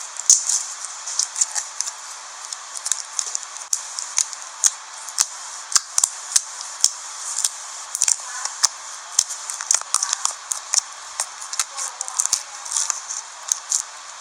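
Slime being squished and stretched by hand, making frequent sharp, irregular clicks and pops, several a second, over a steady hiss.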